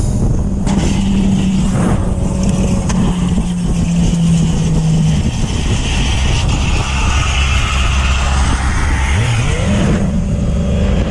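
Motorcycle engine running with a rush of wind and road noise; its note drops about five seconds in and climbs back up near the end.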